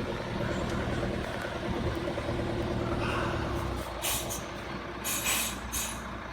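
Heavy truck engine running steadily, its note dropping away about four seconds in, followed by three short air hisses typical of the truck's air brakes.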